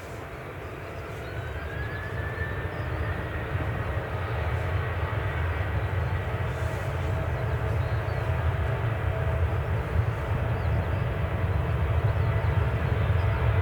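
Jet airliner engines, a steady rumble under a high whine that glides up in pitch about a second in and then holds, growing steadily louder as the aircraft approaches.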